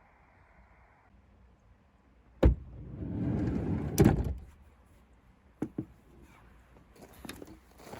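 Sliding door of a Kia Ray: a latch click, the door running along its track for about a second and a half, and a loud thunk as it stops, followed by two small clicks.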